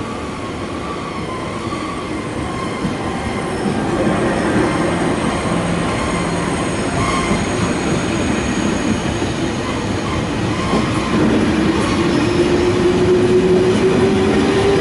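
Double-deck TGV Duplex high-speed train pulling out of the station and rolling past, its noise growing louder as it gathers speed. From about two-thirds of the way in, a whine rises steadily in pitch.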